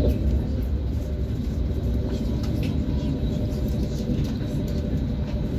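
ES1P Lastochka electric train running on the rails: a steady low rumble of wheels and running gear, with faint scattered clicks.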